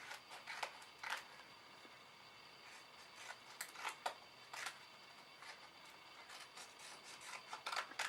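Paper temporary-tattoo sheets being handled: a few short, scattered paper rustles and clicks over faint room hiss.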